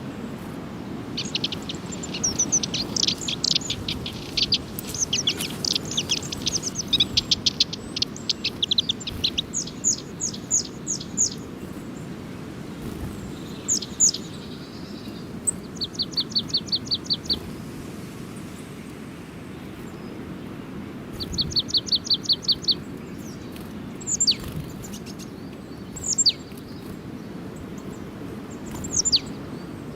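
Small songbirds chirping and calling: a busy stretch of overlapping high chirps in the first third, then two quick evenly spaced runs of notes and a few single sharp calls, over a steady low background rumble.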